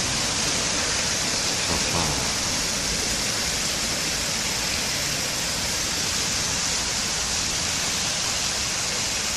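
Heavy rain falling steadily in a monsoon downpour: a dense, even hiss with no let-up.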